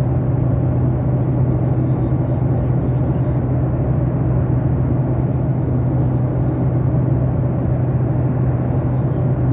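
Airliner cabin noise: the steady drone of the engines and airflow, with a strong constant low hum.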